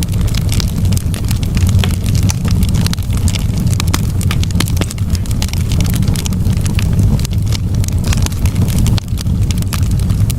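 Campfire burning, with frequent wood crackles and snaps over a steady low rumble.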